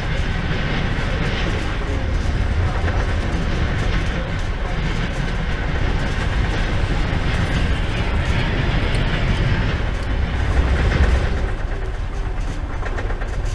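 Steady low rumble of a passenger train car in motion, heard from inside the compartment.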